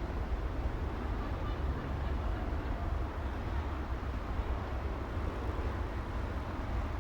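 City street traffic noise: a steady low rumble of engines and tyres blended together, with no single vehicle standing out.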